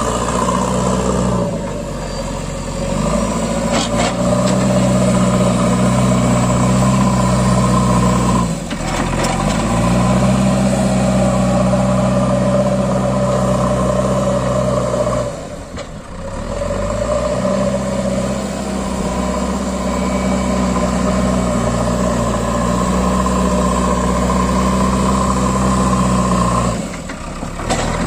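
Diesel tractor engine running hard at a steady pitch. It drops away sharply three times and climbs back up to speed each time.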